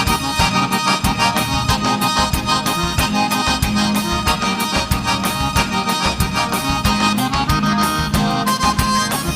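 Live gaúcho dance band playing an instrumental passage led by piano accordion (gaita), with a steady, quick beat of bass and percussion.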